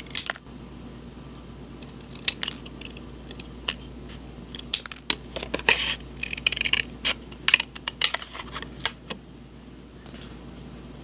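Paper journaling supplies being handled close to the microphone: scattered sharp clicks and taps with short paper rustles, stopping about nine seconds in.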